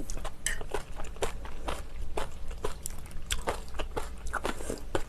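Close-miked chewing and wet mouth sounds of someone eating, with sharp irregular clicks a few times a second.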